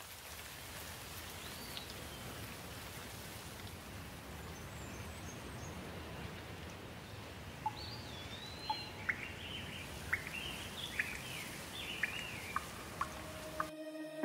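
Birds chirping over a steady background hiss: one short call about two seconds in, then a run of quick, sharp chirps and warbles from about halfway on. Near the end the hiss cuts off and music takes over.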